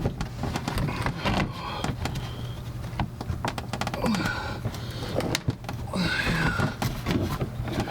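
Scattered clicks, taps and rustling of hands handling small parts behind a car bumper, over a steady low hum.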